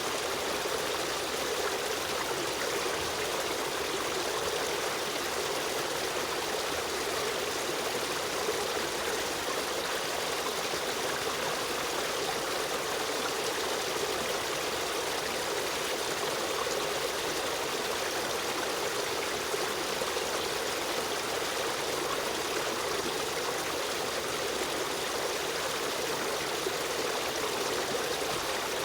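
Stream of running water flowing steadily, a continuous even rush with trickling.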